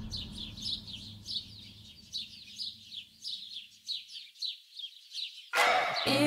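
A small bird chirping over and over, about three short chirps a second, over a low rumble that dies away during the first four seconds. Music starts loudly near the end.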